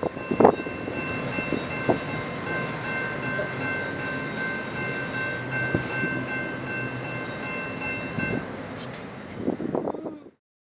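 Freight train rolling by with a steady rumble and several high-pitched tones held together for about eight seconds. The sound then cuts off abruptly near the end.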